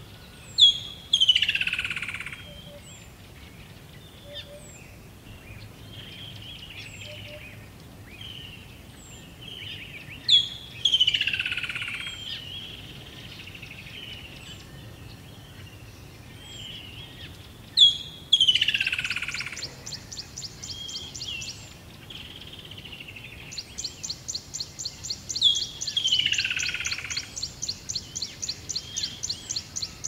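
Birdsong: a loud call that sweeps down in pitch over about a second and a half, repeated about every eight seconds, among small high chirps. From about two-thirds of the way in, a fast, even run of high ticks comes in at about three a second.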